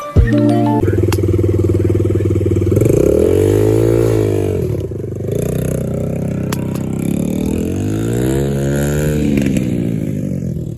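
Dirt bike engine running and being revved, its pitch rising and falling back twice.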